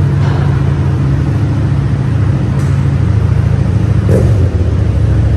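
Motorcycle engine running steadily, with a brief dip about four and a half seconds in.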